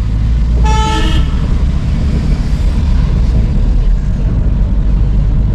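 Loud low rumble of road traffic, with a vehicle horn honking once for about half a second, just under a second in.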